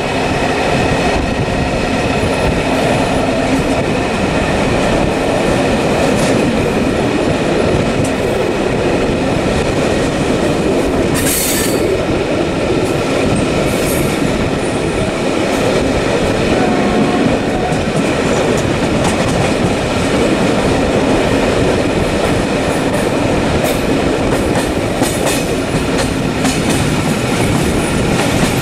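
Steady, loud rumbling noise of a vehicle in motion, with a few steady tones running through it and two brief hissing bursts about halfway through.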